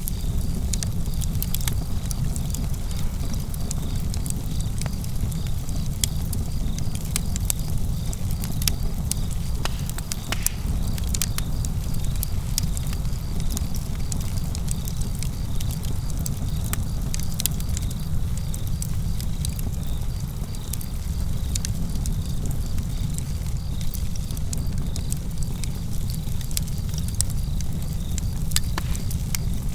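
Outdoor campfire burning, with a steady low rumble and frequent sharp crackles and pops from the wood. Crickets chirp steadily in the background.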